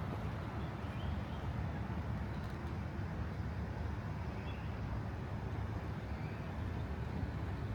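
Steady low rumble of distant city traffic, with a few faint bird chirps over it.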